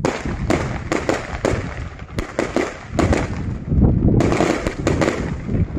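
Aerial fireworks bursting overhead: a rapid, uneven run of sharp cracks and bangs, thickest about four seconds in.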